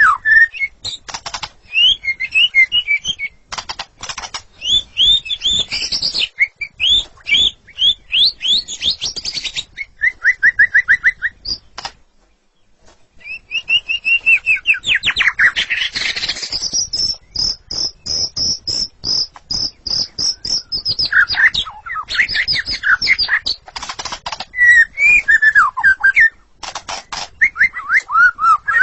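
White-rumped shama (murai batu) singing loudly: a varied run of whistled phrases and rapid trills, broken by a short pause about twelve seconds in, with a long fast series of repeated high notes near the middle.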